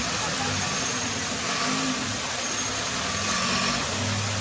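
Suzuki Jimny engine running at low revs in low gear, its pitch rising and falling as the 4x4 crawls over boulders in a stream bed, with a steady rush of flowing water underneath.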